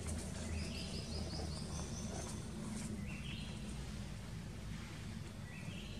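Birds calling in short runs of high notes that step up in pitch, three times, over a steady low background rumble.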